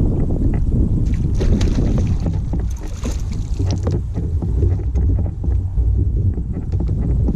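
Wind buffeting the microphone on a fishing kayak on open water: a loud, steady low rumble. From about one to four seconds in, a higher hiss with small crackles rides over it.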